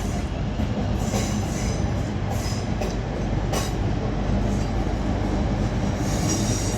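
A pair of Class 360 electric multiple units running into the platform with a steady low rumble and a few faint clicks. A faint high squeal comes in near the end.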